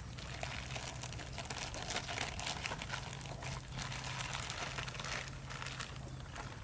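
Crinkling and rustling handling noise, with many small crackles, over a steady low hum.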